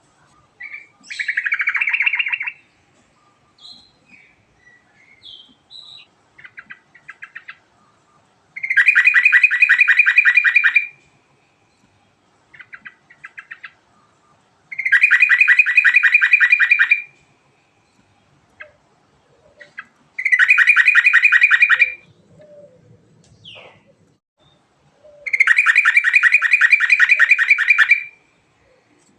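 Sooty-headed bulbul singing: four long, rapid trills of two to three seconds each, with short chirps between them and a louder call about two seconds in.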